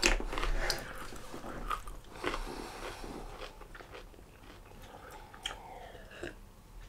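A man chewing a mouthful of chicken chunks close to the microphone, with small wet crunching clicks loudest in the first second or so. Later he drinks lager from a glass, with a few faint swallowing clicks.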